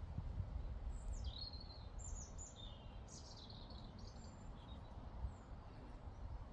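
A small songbird singing one quick phrase of sweeping, mostly falling notes, starting about a second in and lasting about three seconds. Underneath it runs a low, fluttering rumble of breeze on the microphone.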